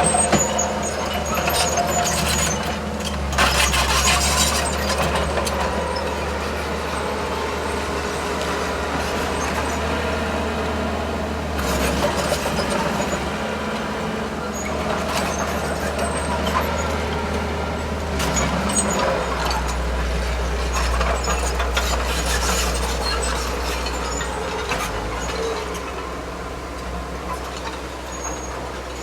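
Heavy diesel earthmoving machinery working: a steady low engine drone, with metallic clanks and squeals coming and going.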